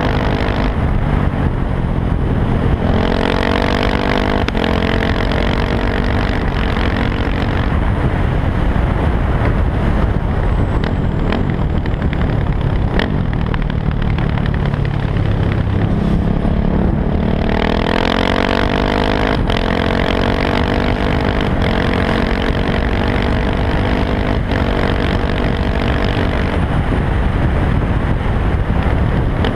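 KTM 690 SMC R supermoto's single-cylinder engine through an Arrow exhaust with the dB killer removed, pulling up through the gears with short breaks at each shift. In the middle it drops to a lower, falling note off the throttle, then it accelerates up through the gears again before easing off near the end.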